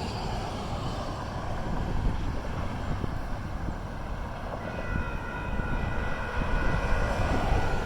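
Steady low rumble of an approaching freight train and road traffic. A little over halfway in, electronic grade-crossing signal bells start ringing with a steady high tone as the crossing activates ahead of the gates coming down.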